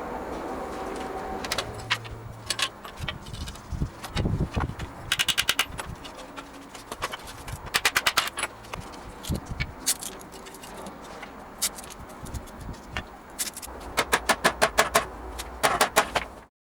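Runs of quick, sharp metallic clicks, several bursts of about five to ten clicks each in rapid succession, with scattered single knocks and taps in between; the sound cuts off abruptly near the end.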